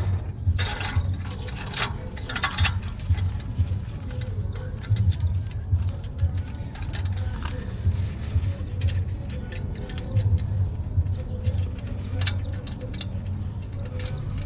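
Scattered metallic clicks and clinks of hand tools and clamp hardware being worked on an exhaust pipe, most of them in the first few seconds, over a steady low rumble.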